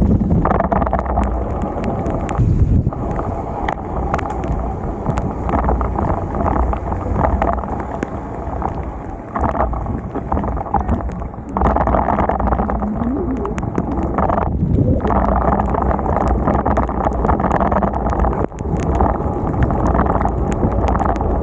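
Wind and rain noise on the microphone of a bicycle-mounted or rider-worn camera while riding through a downpour: a loud, steady rush with short dips every few seconds.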